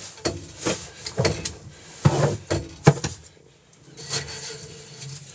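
Quick, uneven scraping strokes as snow and ice are cleared off a boat, with a pause of about a second in the middle.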